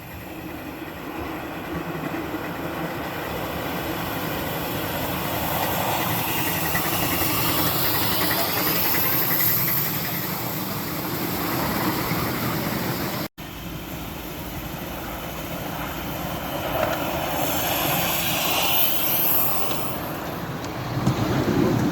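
Miniature steam locomotive modelled on LMS Royal Scot class 6109 running on its track, with steam hissing and the wheels running on the rails. The sound breaks off for an instant about thirteen seconds in.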